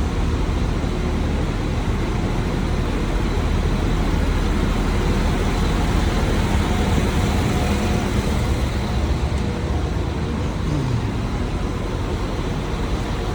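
Steady rumble of vehicle engines and traffic. About ten and a half seconds in, one engine's note falls in pitch.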